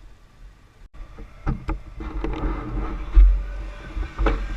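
Quad bike (ATV) riding over rough ground: a low engine rumble swells after a brief cut-out about a second in, with several sharp knocks and clatters.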